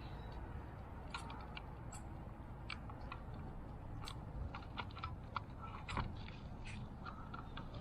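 Irregular small clicks and taps of plastic and metal parts being handled and fitted together while reassembling a fuel pump module, one a little louder about six seconds in, over a low steady hum.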